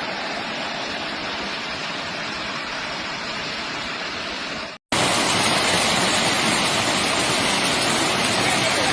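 Steady, dense hiss of a heavy downpour of hail mixed with rain. It cuts out for a split second about five seconds in and comes back louder.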